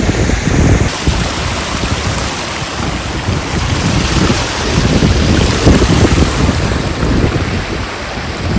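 Wind buffeting the microphone in uneven gusts, over a steady rush of water.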